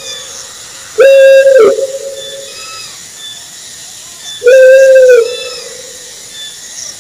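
Owl calling: two drawn-out, slightly arching hoots, about three and a half seconds apart.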